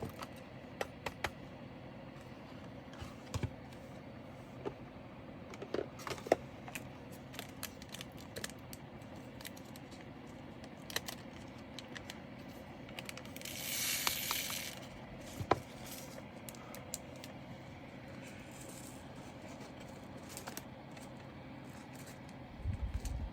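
Small sharp clicks and taps of plastic diamond-painting drills and their small bags being handled, scattered irregularly, with a brief rustle of plastic about 13 seconds in.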